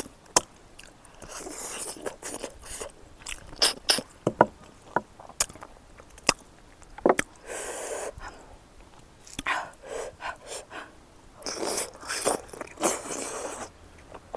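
Close-miked chewing of smoked pork fat, wet and open-mouthed, with many sharp lip smacks and mouth clicks and a few longer stretches of noisy, squelching mastication.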